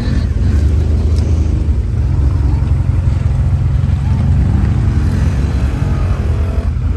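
Quad bike engine running with a steady low rumble, its revs rising and falling in the second half.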